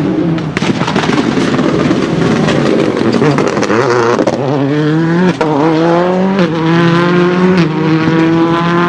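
Skoda Fabia WRC rally car's turbocharged four-cylinder engine under hard acceleration, with sharp crackling anti-lag backfires through the first half. In the second half its pitch climbs and drops back at gear changes, about three times.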